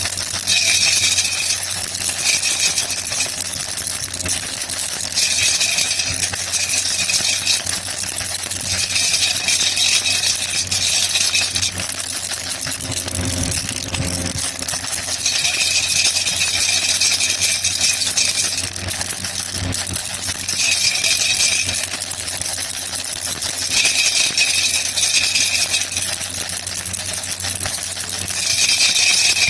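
A baby rattle (jhunjhuna) shaken steadily, its beads rattling without a break, with spells of a few seconds where the shaking grows stronger and brighter, about seven times.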